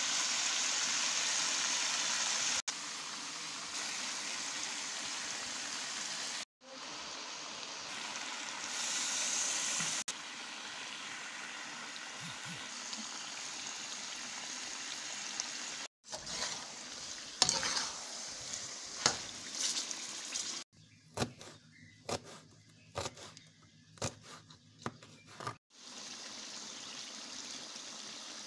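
Chicken frying in oil in a karahi, a steady sizzle that stops and restarts abruptly several times. A little past the middle come a run of separate sharp taps and scrapes.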